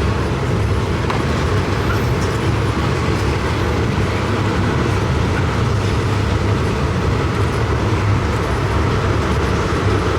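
Steady rumble of a moving passenger train, heard from inside the carriage.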